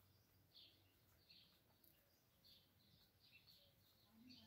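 Near silence with faint, short bird chirps repeating about twice a second in the background.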